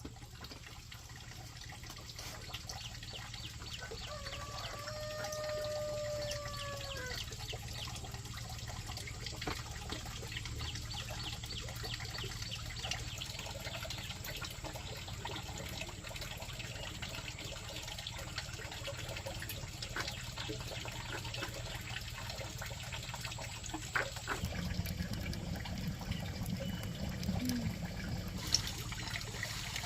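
Water trickling and splashing with a steady patter of fine drips. A held, pitched call with overtones sounds for about three seconds about four seconds in.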